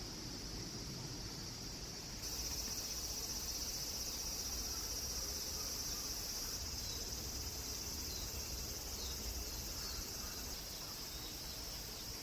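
Steady, high-pitched chorus of summer insects, coming in abruptly about two seconds in.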